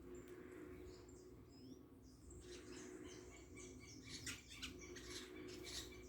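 Small birds giving short, high chirps and squeaks, with a few sharp clicks about four seconds in, over a faint steady low hum.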